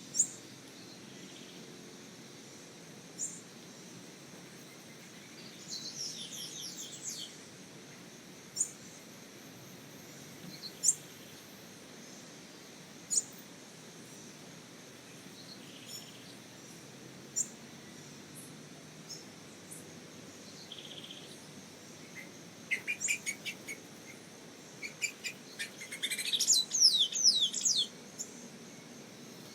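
Black-cowled oriole calling: single sharp, high notes every few seconds, a quick run of falling notes about six seconds in, and a longer, louder chattering series near the end.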